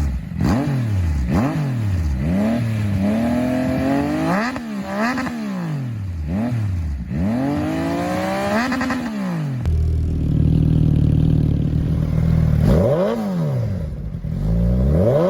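Four-cylinder motorcycle engine revved in a series of quick blips, its pitch rising and falling again and again. It settles to a steady idle about ten seconds in, then is revved twice more near the end.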